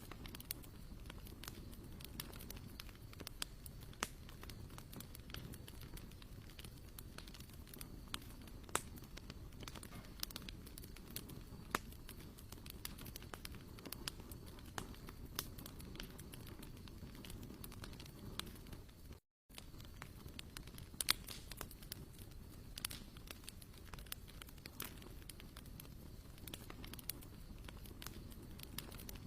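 Wood campfire burning, with frequent sharp irregular crackles and pops over a low rumble. Near the end of the second third it cuts out for a moment.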